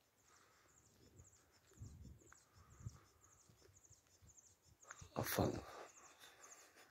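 Faint outdoor ambience with a small bird repeating short, high, falling chirps about twice a second, and a brief louder rush of noise about five seconds in.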